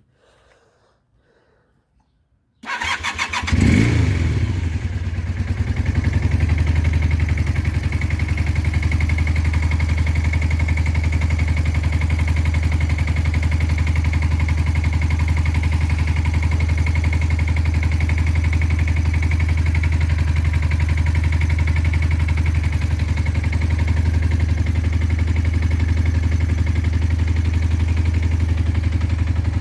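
1980 Honda CB400T's parallel-twin engine catching after a brief crank about two and a half seconds in, revving up once, then settling into a steady idle. It is running on freshly rebuilt carburetors, the right carb doing less than the left, and running lean with no air filter fitted.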